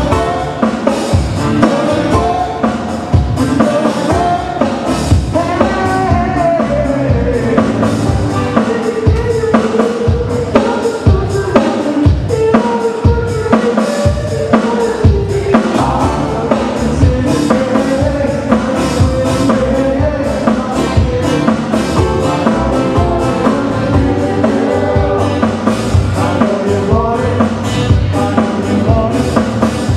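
Live Hawaiian band music: a song played with a drum kit keeping a steady beat under a moving melody line.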